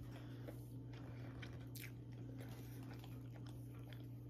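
Quiet chewing of a mouthful of cinnamon roll, with a few faint, short mouth clicks, over a steady low hum.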